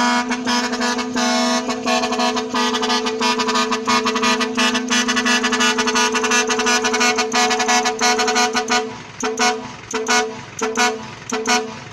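Truck air horns sounding a held two-note chord for several seconds, with a fast clicking flutter over it. In the last few seconds the horns break into a string of short separate blasts.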